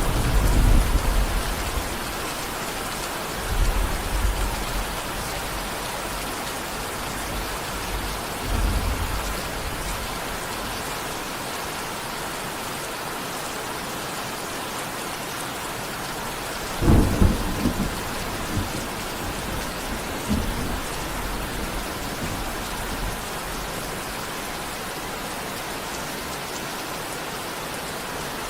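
Steady heavy rain during a thunderstorm, with low thunder rumbles near the start and again a few seconds in, and a sharper, louder thunderclap about seventeen seconds in that rolls off.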